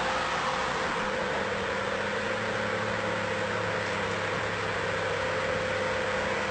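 A car moving at steady speed: an even engine hum with a constant road and wind noise, unchanging throughout.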